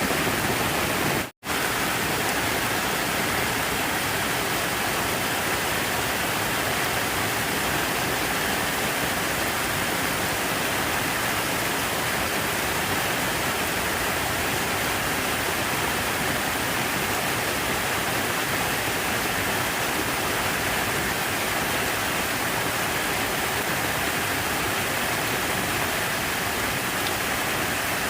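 Steady, even rushing of water with no rhythm or change, cutting out for an instant just over a second in.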